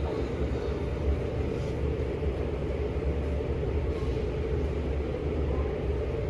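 Steady, even low mechanical rumble with no separate knocks or events.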